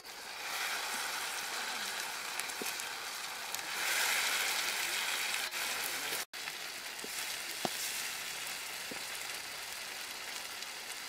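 Eel pieces, mushrooms and chillies sizzling in hot oil in a wok over a wood fire while being stirred with a spatula. The sizzle swells about four seconds in and breaks off for an instant just past halfway.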